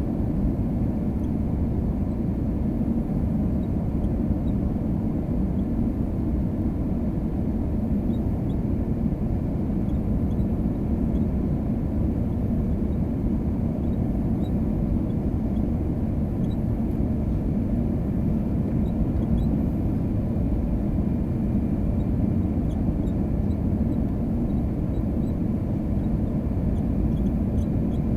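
Steady rumble of an Airbus A320-232 heard inside the cabin from a window seat: the IAE V2500 engines and airflow over the fuselage, an even low noise with no change in pitch or level.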